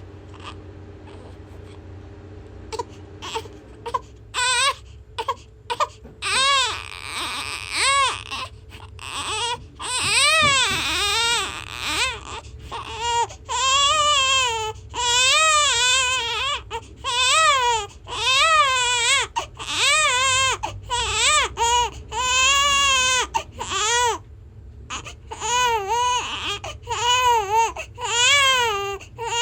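Baby crying hard: short whimpers about three seconds in build into loud, repeated wails with a quavering pitch, each broken off by a quick breath.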